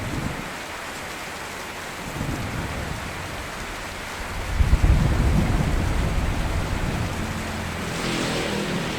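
Steady rain falling, with a peal of thunder about halfway through that swells suddenly and rumbles away over several seconds.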